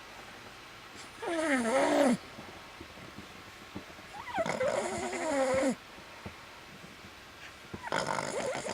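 Boston terrier snoring in its sleep. Three long snores come about three seconds apart, each with a pitch that wavers up and down, the third starting near the end.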